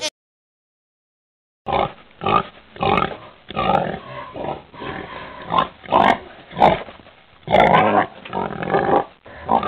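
Pig grunting and oinking: a rapid run of short grunts of varying loudness, starting after about a second and a half of silence.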